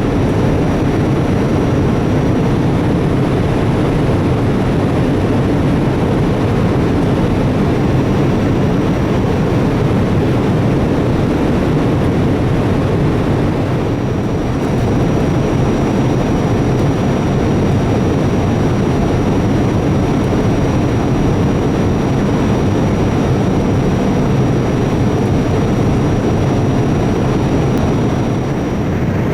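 Steady cabin noise inside a Boeing 787-8: the rush of its two GE GEnx-1B engines and airflow, with a faint steady high whine.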